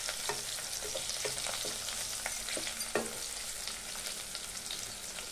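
Diced green capsicum sizzling in oil in a kadai on a low flame, with a spatula scraping and tapping against the pan now and then; one sharper knock about three seconds in.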